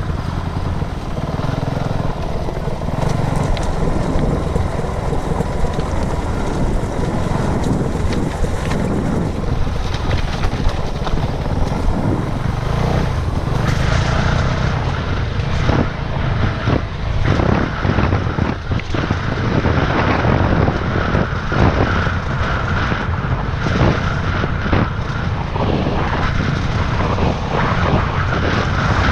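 Dirt bike engine running while being ridden, with wind buffeting the microphone and frequent knocks and rattles. The engine sound grows stronger and higher about halfway through.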